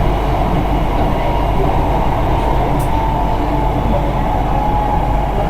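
Hitachi-built Hồ Chí Minh City Metro Line 1 train running along the track: a steady, heavy rumble of wheels and running gear with a faint thin whine above it.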